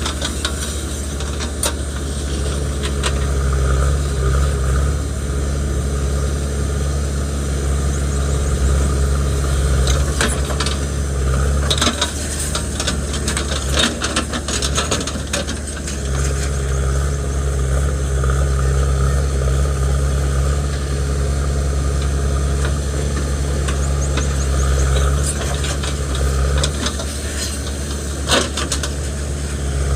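JCB 3DX backhoe loader's diesel engine running steadily while working, its note changing between about 12 and 16 seconds in. A few sharp knocks come through, around 10 and 12 seconds in and again near the end.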